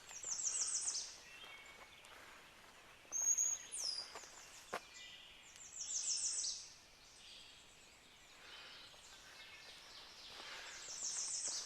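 Songbirds singing in woodland: one bird repeats a short, quick series of high notes about every five seconds, and another gives a thin high whistle with a falling note about three seconds in. A single sharp click near the middle.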